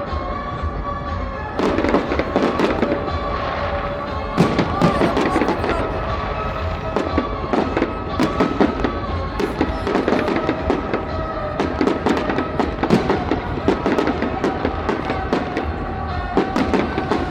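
Fireworks going off: bangs and crackles, many in quick succession, over music with steady held notes.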